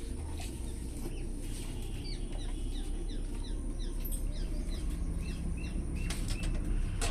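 Small birds chirping, short falling chirps repeated several times a second, over a steady low rumble.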